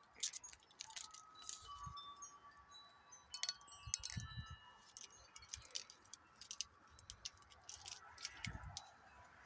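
Wind chimes stirring in the breeze: scattered light metallic clinks, some ringing on briefly as clear tones. A few soft low rumbles sit underneath.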